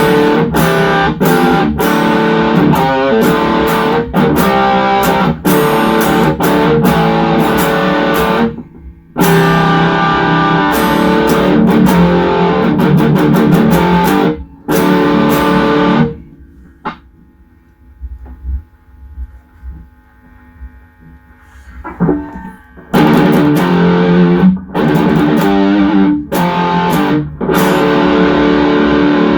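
Electric guitar played through an MXR Super Badass Distortion pedal: heavy distorted riffs with short abrupt stops. About halfway through it drops to a few faint single notes for several seconds, then the loud distorted riffing comes back.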